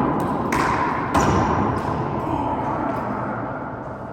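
A rubber handball being struck and smacking off the walls and floor of a four-wall handball court: two sharp echoing hits about half a second and a second in, followed by a few fainter bounces.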